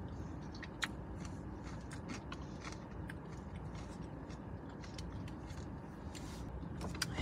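Close-up chewing of a mouthful of poke bowl (rice, salmon and edamame), with small scattered clicks and ticks from the mouth and the plastic fork and bowl, over a low steady background noise.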